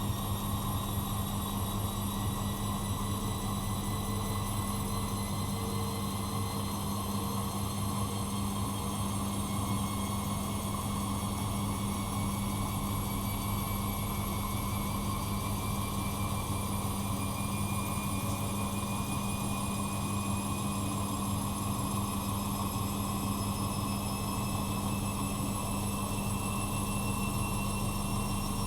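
Bosch Maxx Advantage WFCX2440 slimline washing machine running: a steady low hum under a motor whine that rises slowly and evenly in pitch.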